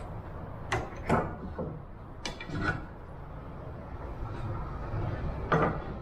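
A handful of sharp knocks and clatters of wooden parts and tools being handled and set down on a workbench, over a steady low hum.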